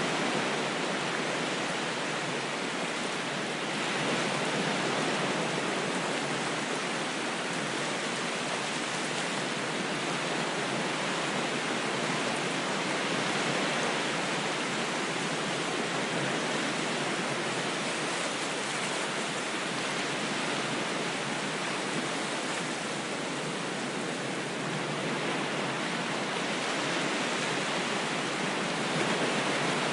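Ocean waves washing in a steady, even rush of water noise, with only slight slow swells in level and no distinct breaking crashes.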